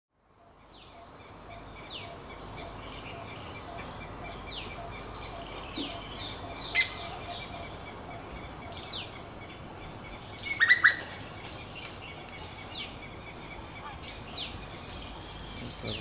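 Wild birds calling: a short downward-sliding chirp repeated every second or two over a steady high hiss, with a single sharp, louder call about seven seconds in and a quick run of three loud notes around eleven seconds.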